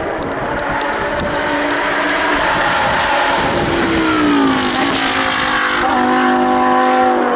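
Race car engine at high revs on a hillclimb run, growing slowly louder; about four seconds in its pitch slides down, as when the driver lifts or shifts down, then holds steady.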